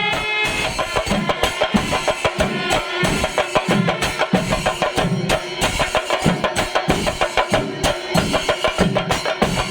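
Kerala temple drum ensemble playing a dense, driving rhythm of many fast strokes, with a deeper beat recurring about every two-thirds of a second.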